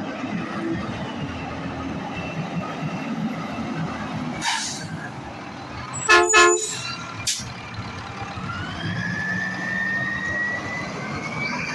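Road traffic with a truck's horn giving a short, loud blast about six seconds in, between two brief bursts of noise. Engine sound runs underneath, and a whine rises steadily in pitch in the last few seconds as a vehicle speeds up.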